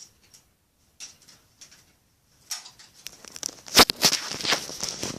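Toys being handled: scattered soft rustles and small clicks, then a sharp knock a little past halfway, followed by a busy run of rustling and clatter.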